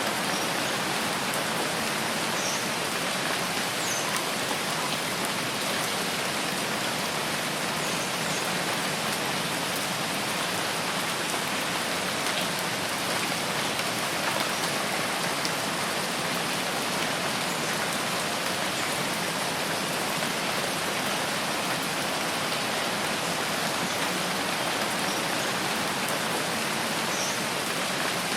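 Steady rain falling on a forest, an even, unbroken hiss.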